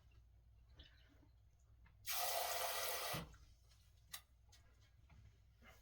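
Kitchen tap running into the sink for about a second, starting about two seconds in, with a few faint clicks and knocks around it.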